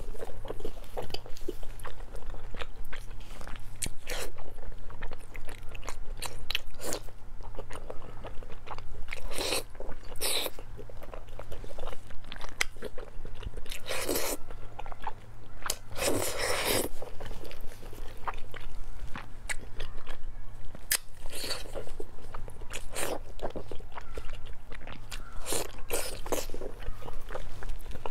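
Close-miked eating: a person biting and chewing pieces of glazed pork belly, with irregular wet mouth clicks and smacks, and a couple of louder, longer mouth noises about halfway through. A steady low hum sits underneath.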